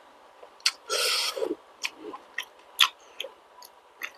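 Close-miked eating sounds from a person eating: wet mouth clicks and smacks of chewing, with a longer noisy burst about a second in.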